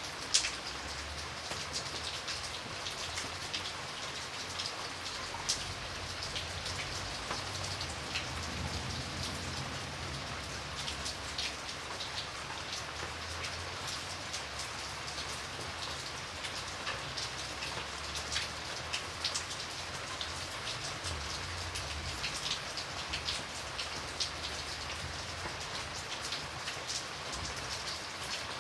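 Steady rain with many single drops ticking sharply against a window pane, one louder drop about half a second in, over a faint low rumble.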